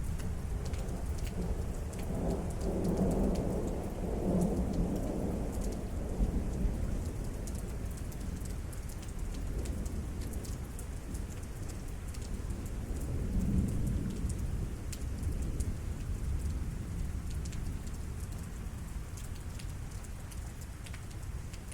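Steady rain with scattered drips, and thunder rumbling twice: a longer rumble about two seconds in, and a weaker one a little past the middle.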